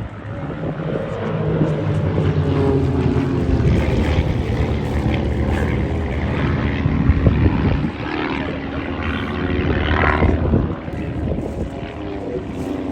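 Propeller-driven RV-8 aerobatic aircraft of a formation team flying past, the overlapping drone of several piston engines and propellers shifting in pitch as they manoeuvre.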